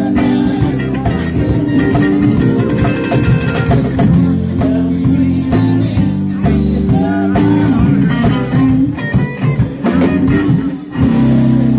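Live band playing a blues-rock jam: electric guitar leads with bent notes over bass and drums, with a brief drop in the music near the end.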